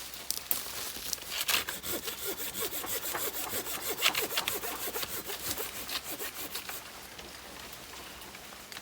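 Hand saw cutting through dead wood in quick back-and-forth rasping strokes, easing off near the end.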